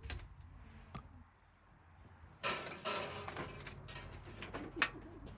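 A few sharp clicks and knocks, with a short rough rustling burst about two and a half seconds in.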